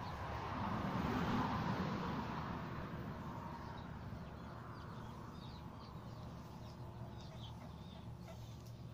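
Birds chirping in short, scattered calls over a steady outdoor hiss, with a louder swell of rushing noise about a second in that fades away over the next few seconds.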